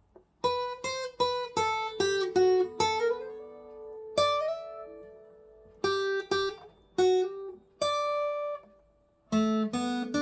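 Acoustic guitar playing a slow melody in single plucked notes. A quick run of notes gives way to a long note left ringing, and lower bass notes join in near the end.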